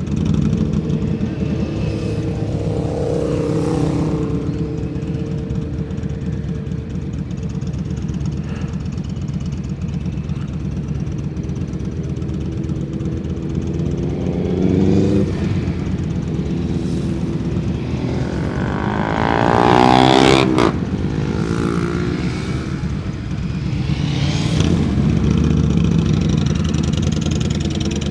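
Motorcycle engines running at low speed in slow traffic, a steady drone with several swells of throttle. About twenty seconds in, a motorcycle revs hard close by, rising steeply in pitch before cutting off, the loudest moment.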